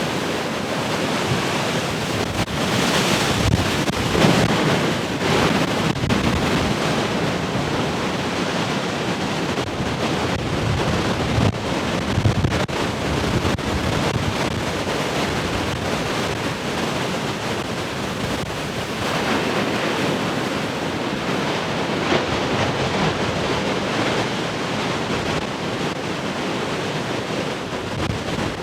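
Large ocean waves breaking and washing in, a continuous surf roar that swells with each breaker, notably a few seconds in and again about halfway through. Wind buffets the microphone throughout.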